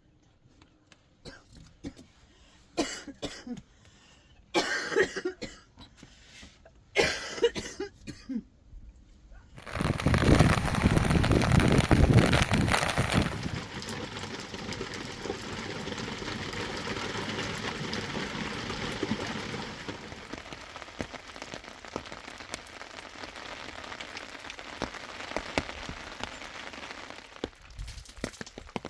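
A woman coughing in a few short fits. About ten seconds in, a loud hissing, rushing noise starts suddenly; it is loudest for the first three seconds, then settles to a steady hiss.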